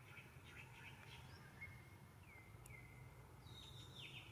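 Faint bird calls: short whistles that drop in pitch and then hold, about two seconds apart, with scattered short chirps between them.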